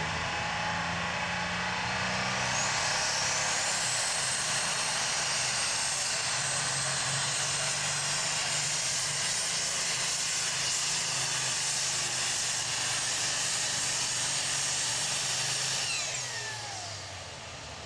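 Super stock pulling tractor's turbocharged diesel engine running at full power down the track. A high whine climbs about three seconds in and holds, then falls away near the end as the engine comes off the power.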